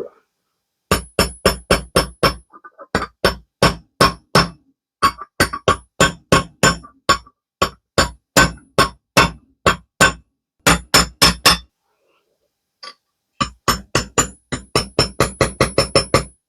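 Hammer tapping a seal ring into a Vespa LX 50 wheel hub, metal on metal: quick runs of blows at about four a second with short pauses between runs, some blows ringing with a high tone.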